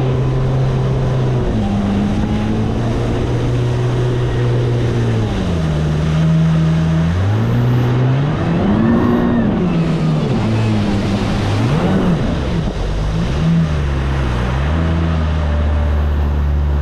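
Personal watercraft engine running under way. Its pitch holds steady at first, then drops and rises several times in the middle as the throttle is eased and opened again, before settling lower near the end.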